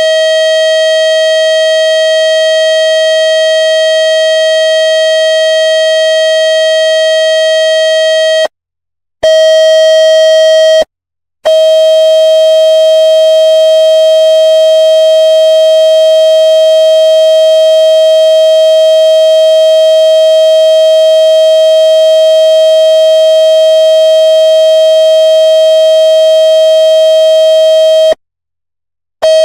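Loud, steady buzzing tone of about 600 Hz with many overtones, played through a phone speaker to shake water out of it. It cuts out briefly about a third of the way in, again a couple of seconds later, and once more near the end.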